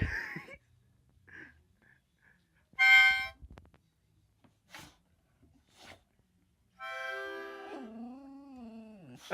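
Harmonica blown in chords: a short loud blast about three seconds in, then a longer held chord near the end. A dog howls along over the held chord in a wavering, falling pitch, upset by the harmonica.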